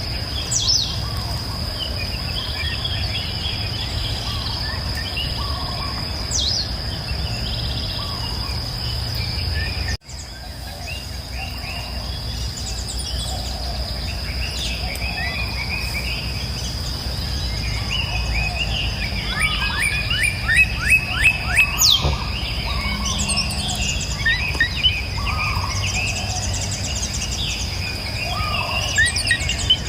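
Several birds calling and chirping over a continuous high-pitched insect drone. About two-thirds of the way through, one bird gives a quick run of repeated notes. The sound cuts out for an instant about ten seconds in.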